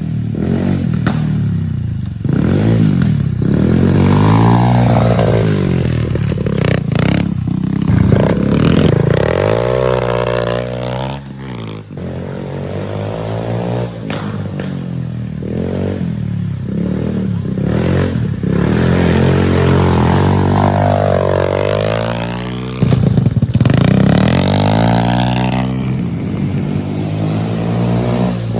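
Chinese 90cc pit bike's single-cylinder four-stroke engine being ridden hard, revving up and dropping back again and again as the throttle is opened and closed and the semi-automatic gearbox is shifted.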